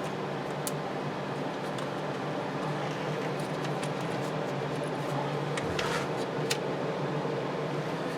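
A steady low hum with a few faint clicks and knocks of hand tools and parts being handled while a battery cable is worked on, several of them close together a little past the middle.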